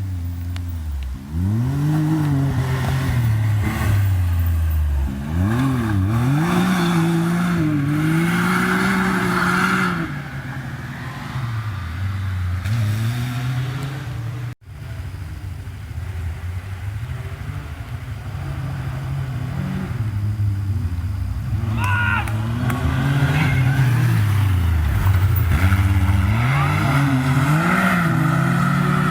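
Side-by-side UTV engine run hard around a motocross track, its pitch climbing and falling over and over as the throttle opens and closes. The sound drops out sharply for a moment about halfway through, then the engine revs on.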